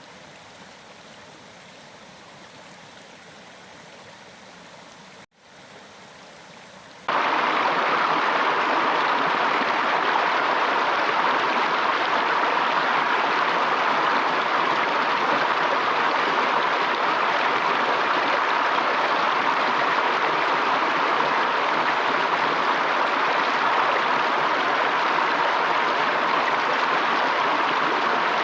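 Steady rushing of running water, like a stream. It is soft at first, with a brief dropout, then jumps abruptly to a much louder, fuller rush about seven seconds in.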